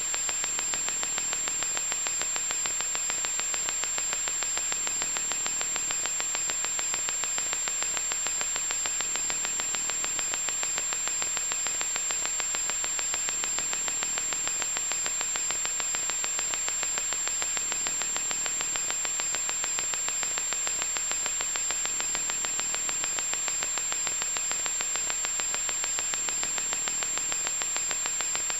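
Loud electronic static: a steady hiss, strongest in the upper range, with a thin high whine held over it and a fine, rapid crackle running through it.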